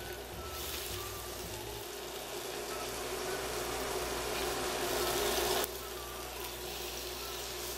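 Raw tuna steaks sizzling as they are laid into hot olive oil in a stainless skillet, over the steady low hum of an induction cooktop. The sizzle drops off abruptly about five and a half seconds in.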